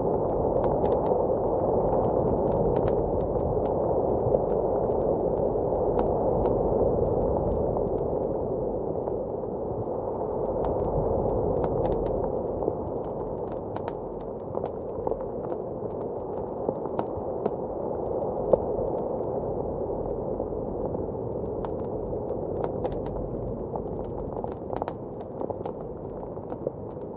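A wood fire crackling in a fireplace, with irregular sharp pops, over a steady muffled rush of blizzard wind that swells and eases.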